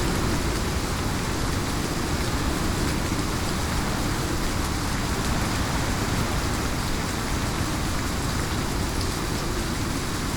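Heavy rain falling steadily: a dense, even hiss with a low rumble underneath and no distinct thunderclaps.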